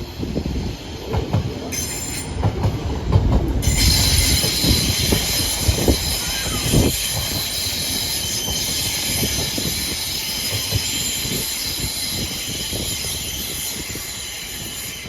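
Train wheels squealing against the rails as a train moves through: several high, steady squealing tones start about two seconds in and grow much louder about four seconds in. Irregular low knocks sound underneath during the first seven seconds.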